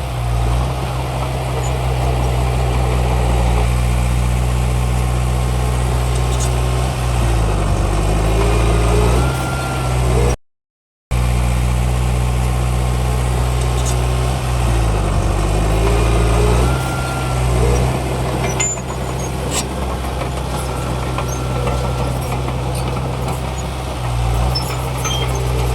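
Heavy diesel earthmoving engine running steadily, its pitch dipping and rising twice as the machine works under changing load. The sound cuts out completely for a moment about ten seconds in.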